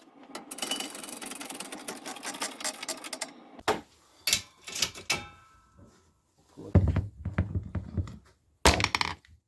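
Handling of a tube press and rammer while compacting bentonite clay into a cardboard cohetti tube. A rapid run of clicks and rattling lasts about three seconds, then comes a series of separate knocks and thuds.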